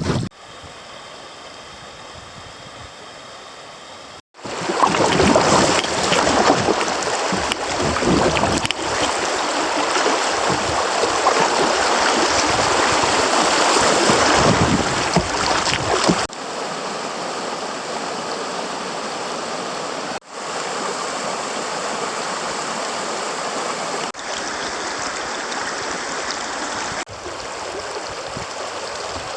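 Creek water rushing and splashing over riffles, heard as a run of short clips with abrupt cuts; the rush is loudest from about four seconds in until about sixteen seconds in, then steadier and softer.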